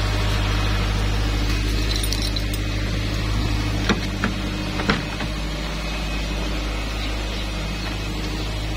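Steady low hum of a car engine idling: a Subaru with jumper cables connected, jump-starting another car. A few sharp clicks about four and five seconds in, as a car door handle is pulled.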